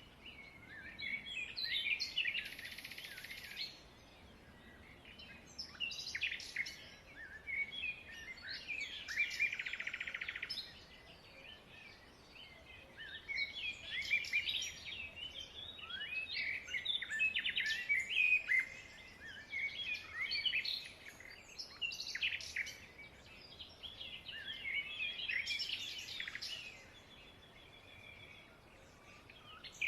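Many small birds chirping and twittering together: a dense chatter of short, high calls, with brief lulls a few times.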